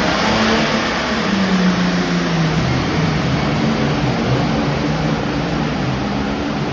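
Super Farm class pulling tractor's diesel engine running hard under load during a pull. Its pitch wavers up and down throughout.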